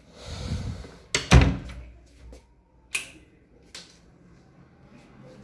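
A brief rustle followed by several sharp knocks and clicks, the loudest a quick double knock just over a second in, then single clicks about three and four seconds in.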